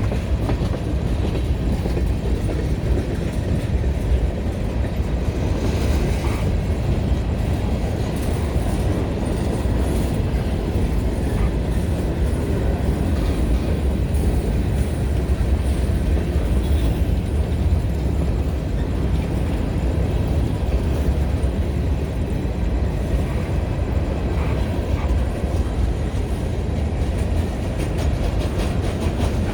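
Florida Central Railroad freight train rolling by on the rails, a steady low rumble that holds even throughout.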